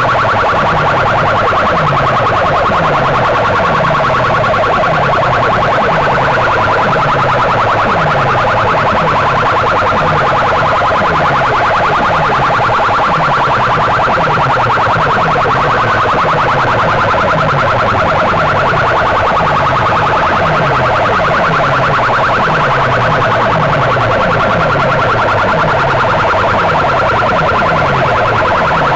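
A loud, distorted siren-like electronic competition track played through large loudspeaker boxes. A wailing tone sits over a falling bass pulse that repeats about three times every two seconds.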